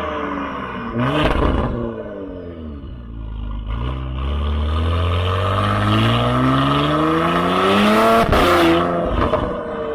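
Porsche Cayenne Coupe 3.0T's turbocharged 3.0-litre V6 through a catless, valved full exhaust. Revs fall off, with a sharp crack about a second in. The pitch then climbs steadily for about four seconds under acceleration to another sharp crack, after which the revs drop again.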